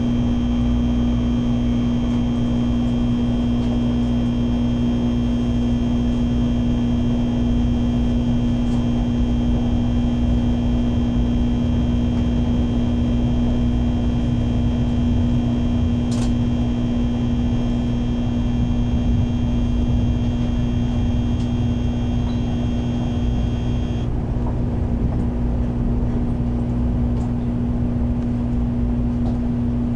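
Shinkansen train running at speed, heard inside the passenger car: a steady low rumble under a strong steady hum, with a set of high whining tones that cuts off suddenly about 24 seconds in.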